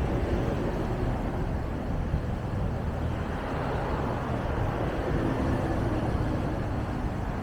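Scania city bus's diesel engine running as the bus drives along, a steady low rumble with road noise, a faint steady drone joining about five seconds in.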